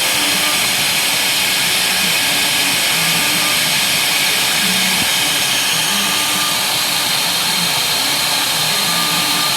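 A homemade CNC machine running: a loud, steady rushing noise, with short low motor tones that shift in pitch every half second or so as the axes move.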